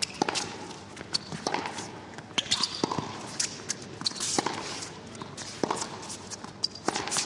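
A tennis rally: the ball is struck back and forth with rackets, with players' quick footsteps on the court between the hits, making a string of sharp, irregular knocks.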